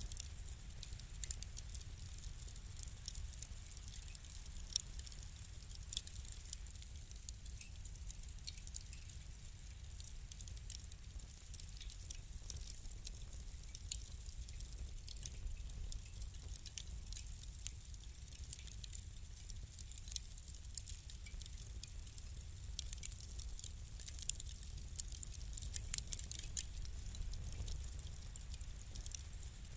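Wood fire crackling: frequent small sharp pops and ticks, irregular and scattered throughout, over a low steady rumble of the burning.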